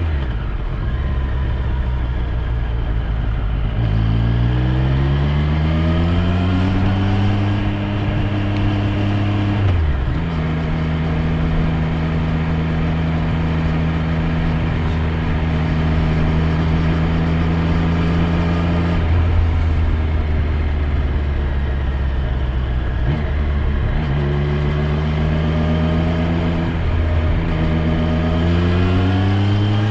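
Triumph Street Triple 765 R's inline three-cylinder engine out on the road: it climbs in pitch through the gears about four seconds in, holds a steady cruise, drops sharply at about ten seconds and again near twenty, then pulls up through another gear change over the last few seconds.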